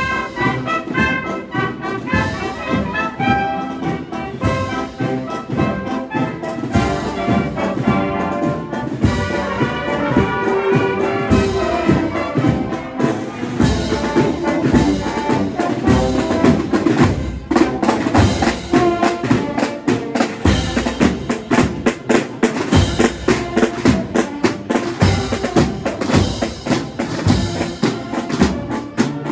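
Spanish Easter procession band playing: brass instruments over a steady drum beat.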